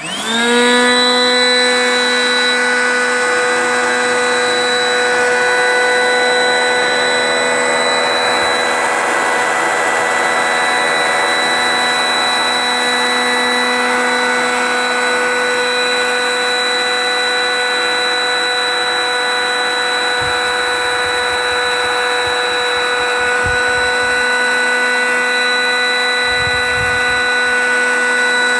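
Small electric air pump switching on, spinning up within the first half second, then running with a steady whine as it sucks the air out of an Airbedz Lite truck bed air mattress.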